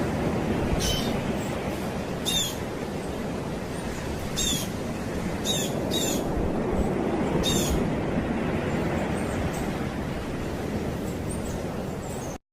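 Birds chirping: about six short, high calls a second or two apart, over a steady low rumble. The sound cuts off suddenly near the end.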